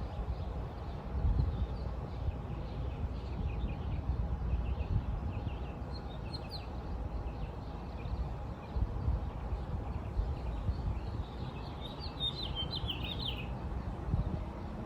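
Birds chirping, with a louder flurry of quick chirps about six seconds in and a longer one about twelve seconds in, over a steady low rumble.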